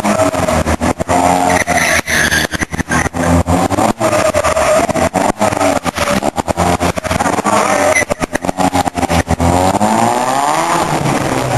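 A Mini's engine revving up and down over and over as it is driven hard, its pitch climbing and falling, with a long rising rev near the end. The loud sound is choppy, broken by many brief dropouts.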